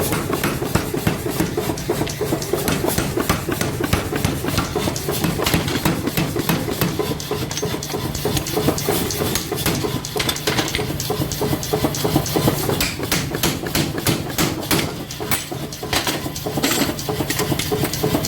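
Repeated hammer blows in a forging job on a nail puller, coming in quick irregular runs over the steady hum of a running machine.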